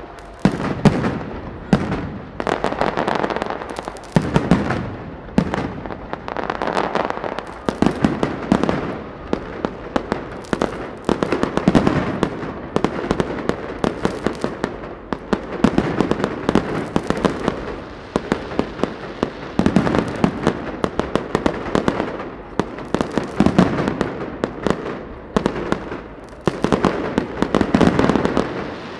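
Large aerial fireworks display: a dense, continuous barrage of shell bursts, many sharp bangs and pops overlapping, swelling in volume every second or two.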